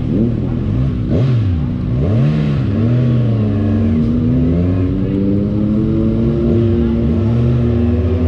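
Two Kawasaki inline-four motorcycle engines on the move. One holds a steady note that climbs slowly as it accelerates in the second half. The other, the ZX-25R on its SC-Project exhaust, revs up and down repeatedly, about once a second.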